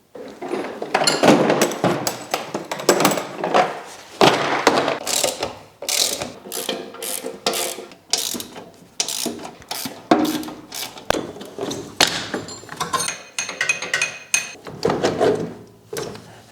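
Stankoimport hand ratchet wrench clicking as it turns fasteners on a Ural motorcycle engine, in repeated runs of quick clicks with short pauses between.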